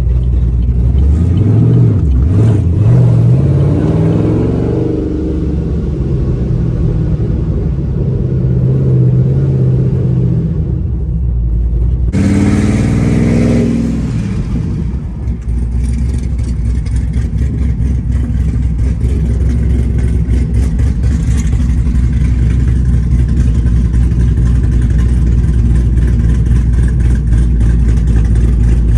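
Procharger-supercharged Camaro SS 6.2-litre V8 pulling hard twice, its pitch climbing a second or so in and again suddenly about halfway, then running steadily at speed. Heard from inside the car.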